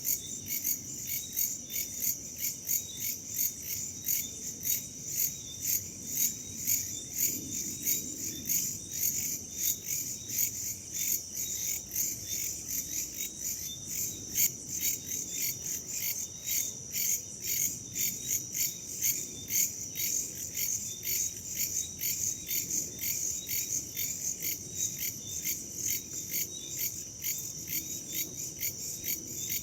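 Chorus of crickets and other insects chirping in a steady, even pulsing rhythm, with a faint low rush of wind underneath.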